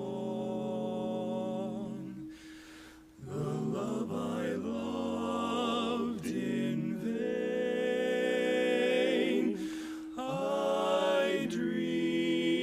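Barbershop quartet of male voices singing a cappella in four-part close harmony, holding sustained chords with vibrato. The chord breaks off briefly about two seconds in, and again near ten seconds.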